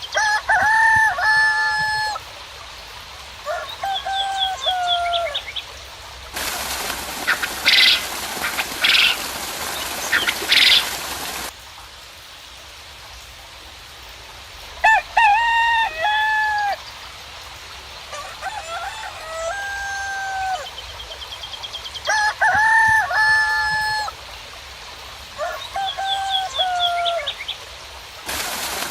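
Roosters crowing over and over, each crow about a second long, with small birds' quick chirping trills between them. A steady hiss of rain cuts in abruptly about six seconds in and stops just as abruptly some five seconds later, returning near the end.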